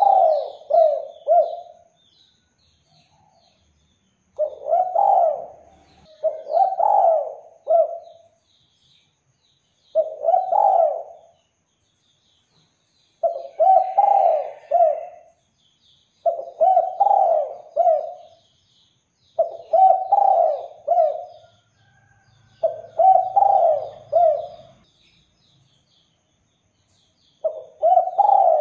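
Spotted dove cooing: about nine phrases of several quick coos each, one every three seconds or so, in the rhythm of a singing male. Faint high chirps of small birds sound behind.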